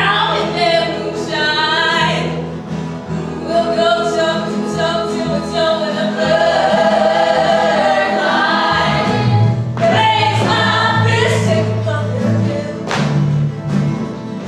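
A group of voices singing together in harmony over a musical accompaniment with a low bass line.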